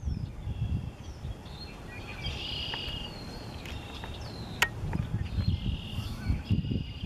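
Birds calling in short high chirps and whistles, some falling in pitch, over low gusts of wind on the microphone. A single sharp click comes about two-thirds of the way through.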